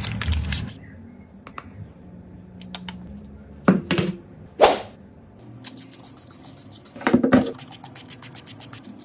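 Small hand tools and phone parts knocked and scraped on a hard work surface while the smartphone is handled and taken apart: two sharp knocks near the middle, then a fast run of small clicks, about ten a second, near the end.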